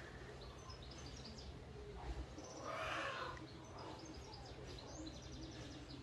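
Quiet outdoor ambience with small birds chirping now and then, and a brief swell of noise about halfway through.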